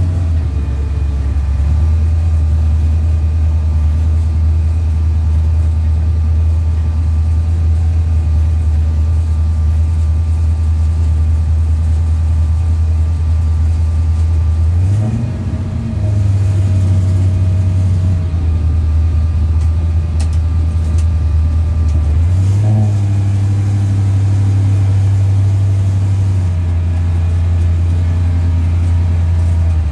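Small-block Ford 302 V8 of a drag-racing Fox-body Mustang idling, heard from inside the car. Twice, about halfway through and again a few seconds later, the engine speed rises a little and holds for a few seconds before dropping back.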